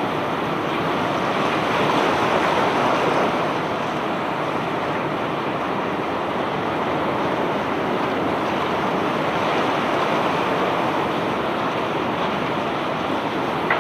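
Self-unloading barge discharging its bulk load of stones: a steady, even rushing noise with no distinct knocks, a little louder for a second or so about two seconds in.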